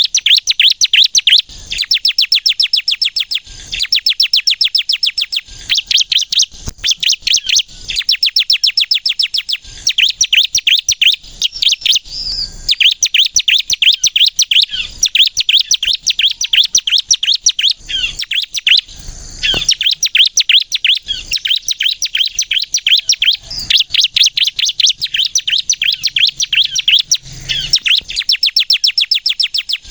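Bar-winged prinia (ciblek) singing hard in rapid-fire runs of fast, high chattering notes, each phrase lasting a second or two with short breaks between.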